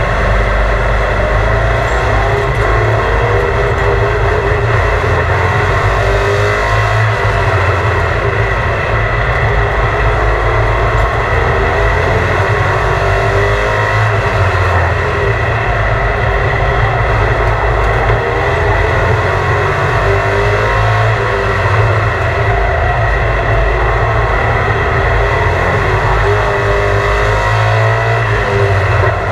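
A vehicle engine running steadily and loud, heavy in the low end, with its pitch drifting slightly up and down.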